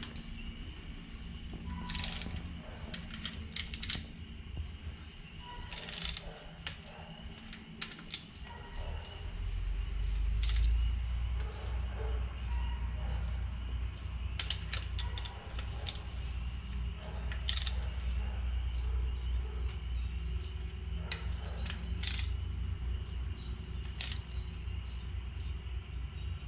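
Torque wrench ratcheting and clicking as the connecting-rod cap nuts of a Jeep 2.5 L four-cylinder engine are torqued to 33 foot-pounds, in short sharp clicks now and then. A low steady rumble sets in about a third of the way through.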